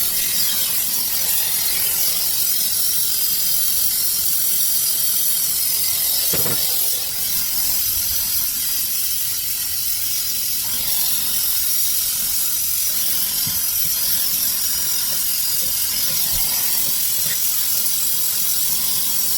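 Steady, loud hiss of pressurized gas rushing through an air-conditioner refrigerant line during a leak test, with a single knock about six and a half seconds in.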